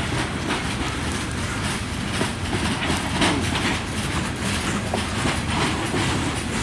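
Coal hopper cars of a freight train rolling past close by: a steady rumble of steel wheels on the rails, with rapid clicking as the wheels cross rail joints.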